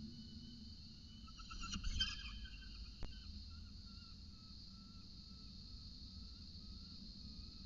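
Steady high-pitched drone of insects, likely cicadas, with fainter wavering calls under it. About two seconds in there is a brief louder buzz, and a single sharp click follows about a second later.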